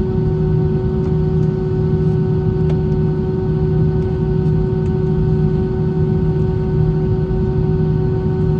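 Airbus A320 passenger-cabin noise in flight: a steady low drone of the engines and airflow with several constant humming tones over it, unchanging throughout.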